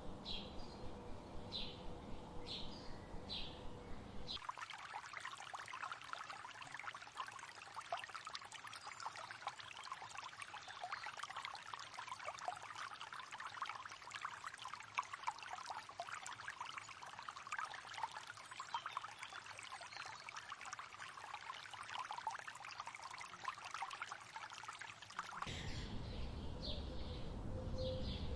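Short bird chirps repeating about twice a second, then after a sudden cut about four seconds in, running water trickling and splashing steadily for about twenty seconds, before a sudden cut back to bird chirps near the end.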